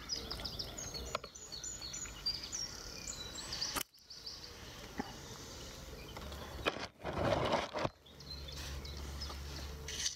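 A small songbird singing outdoors, a quick run of short high notes that steps down in pitch over the first few seconds, then a brief rustle about seven seconds in.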